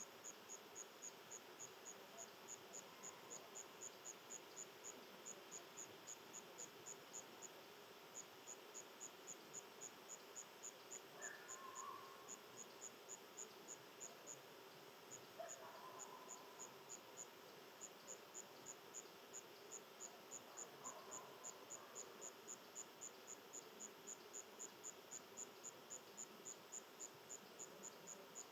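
An insect chirping steadily outdoors: short, high, evenly spaced chirps, about four a second, stopping briefly a few times. A few faint short calls come through in the middle.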